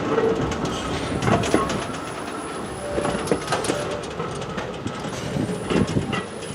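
A train moving on the track, with irregular clanks and clicks of wheels and running gear.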